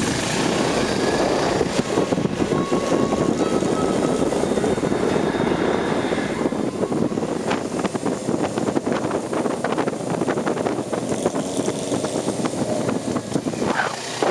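Motorcycle under way at road speed: engine drone mixed with heavy wind rush over the microphone, loud and unsteady throughout.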